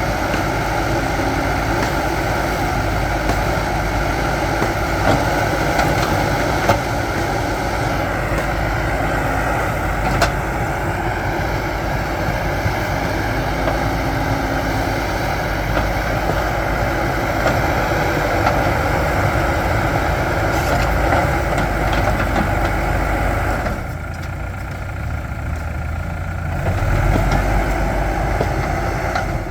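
Backhoe loader's diesel engine running steadily while working, with a couple of sharp knocks and a brief drop in level for a couple of seconds near the end.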